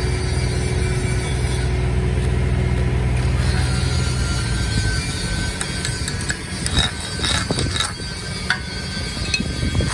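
Steady low engine hum, then sharp metallic clicks and knocks from about six seconds in as the hum drops back.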